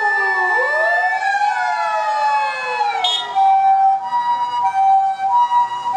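Sirens of Japanese emergency vehicles on an urgent run: an electronic wail siren gliding down and rising again, then, from about three and a half seconds in, a two-tone high-low siren alternating between two pitches.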